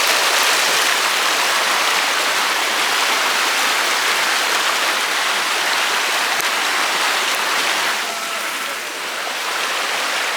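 Shallow river rushing over rocks, a steady dense hiss of flowing water that eases off a little near the end.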